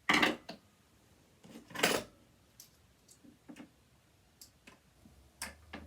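Metal sewing-machine parts and tools clinking and clattering while being handled: a loud clank at the very start and another about two seconds in, followed by a few light taps and clicks.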